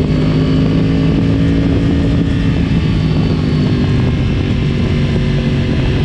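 2010 Yamaha R1's crossplane inline-four engine running at fairly steady revs through a decatted Akrapovic exhaust, its pitch easing slightly lower about halfway through.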